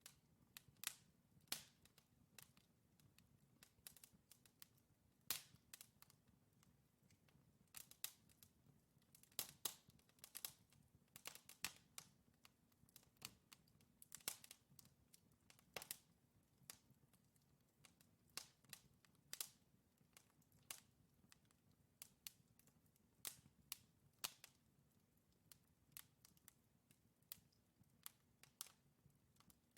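Wood fire crackling: irregular sharp pops and snaps from burning logs, a few each second, over a faint low rumble of flame.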